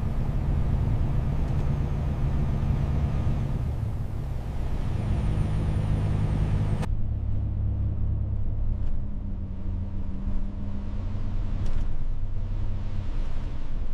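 Heavy vehicle engine running steadily, a low rumble. About seven seconds in the sound changes abruptly, the hiss above the rumble cutting out while the engine goes on.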